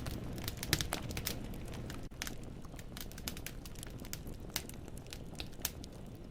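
Firewood burning in a fireplace, crackling: irregular sharp snaps and pops of the logs, several a second, over a low steady rumble of the flames.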